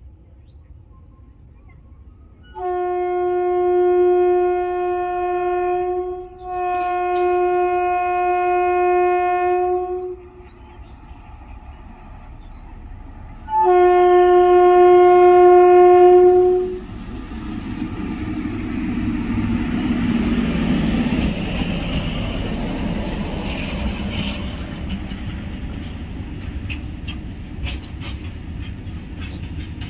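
Indian Railways WAG-7 electric locomotive sounding its horn in three long blasts: two back to back, then a third after a short pause as it nears. The freight wagons then rumble past with wheels clicking over the rails near the end.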